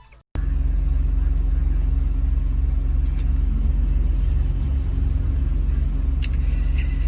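A dog snoring loudly: a steady, low, rattling rumble that starts abruptly about a third of a second in and keeps going without a break.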